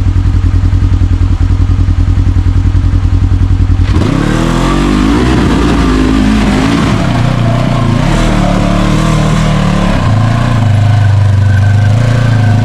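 Side-by-side UTV engine idling with a fast, even pulse, then revved up sharply about four seconds in, its pitch climbing and dipping before holding a steadier, higher note near the end.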